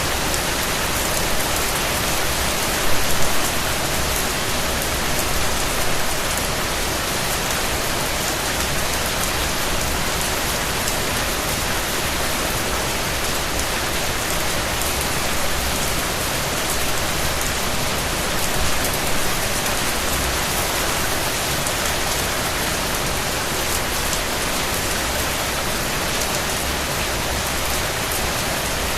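Steady rain falling: an even hiss with the ticks of individual drops. There is a brief louder patch about three seconds in.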